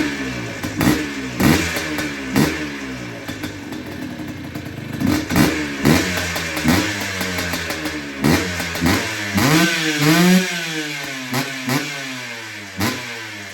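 Freshly rebuilt 1997 Yamaha Blaster's 195cc single-cylinder two-stroke engine with an FMF expansion-chamber pipe, revved in quick blips that rise and fall about once a second. There is a longer, higher rev about ten seconds in, and it settles toward idle near the end.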